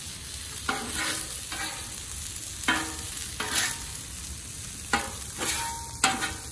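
Metal spatula scraping and clinking on the steel griddle top of a Camp Chef FTG600 flat-top grill as fried rice is turned, a sharp scrape about once a second over a steady sizzle of the frying rice.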